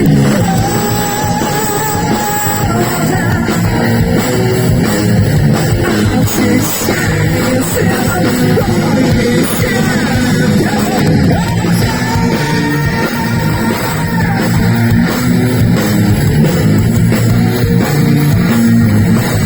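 Live heavy metal band playing at full volume: electric guitar held, sliding lead notes over drums and bass.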